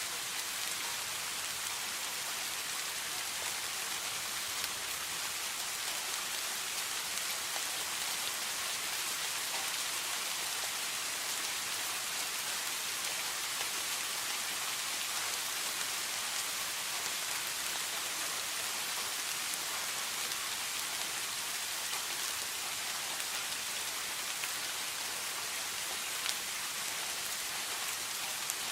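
Steady rain falling, an even hiss with scattered drop strikes on a surface.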